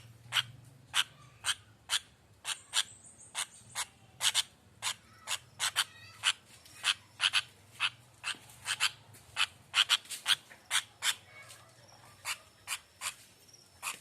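Sooty-headed bulbul (kutilang) giving a long series of short, sharp chip calls, about two a second, some in quick pairs.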